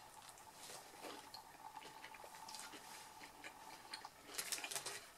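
Faint, wet chewing of a grilled veggie wrap, with soft ticks and clicks. A short crinkle of the wrap's paper wrapper comes about four seconds in.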